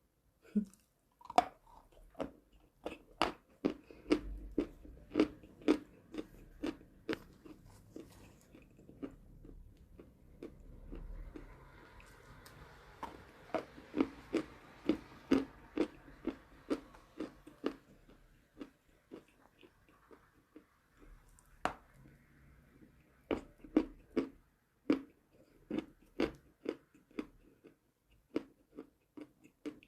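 Chalk being bitten and chewed close to the microphone: a steady run of crisp crunches, about two to three a second, with a couple of short pauses.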